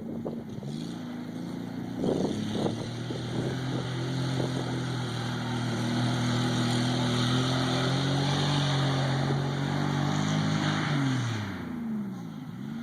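Vehicle engine revving up over a few seconds and held at high revs for several seconds with a steady hiss, then dropping off sharply, followed by one brief rev near the end.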